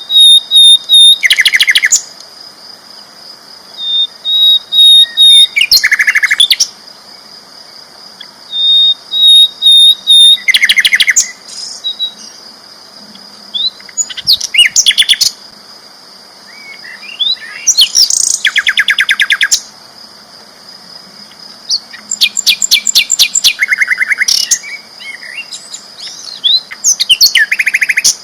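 Sikatan londo flycatcher singing loudly in repeated phrases, one every four or five seconds. Each phrase opens with a few short, even, high notes and breaks into a fast, rattling trill of rapid strokes lasting a second or two.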